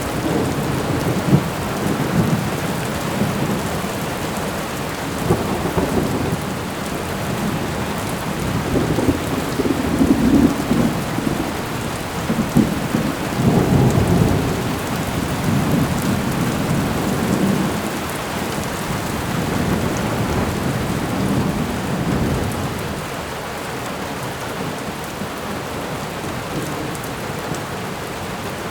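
A thunderstorm: steady rain with several long, low rolls of thunder. The thunder dies away in the last few seconds, leaving the rain alone.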